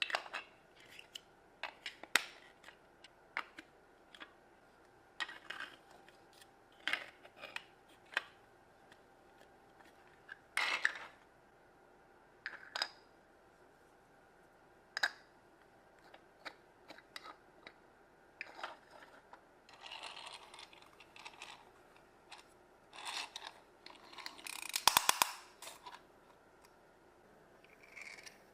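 Plastic Mega Bloks pieces being handled and snapped together: scattered sharp clicks and taps, with some scraping. There is a short rattle of loose pieces near the end.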